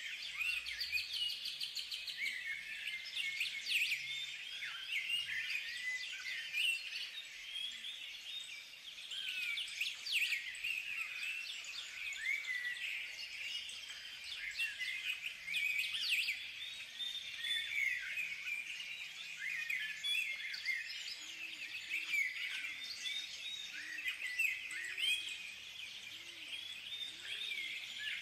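A chorus of small birds chirping and singing continuously, many short high chirps and quick trills overlapping.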